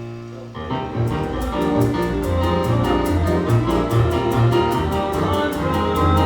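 Live theatre orchestra music: a held chord gives way, under a second in, to a brisk number with a steady beat.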